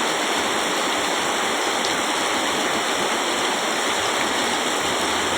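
Heavy rain pouring down, a steady rushing of water.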